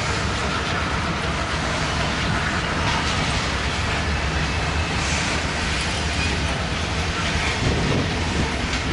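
Covered hopper cars of a freight grain train rolling past, a steady noise of steel wheels running on the rails.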